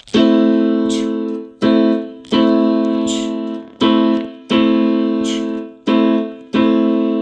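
A piano playing an A minor chord (A, C and E together), struck seven times at an even pace. Each chord is held and fades before the next.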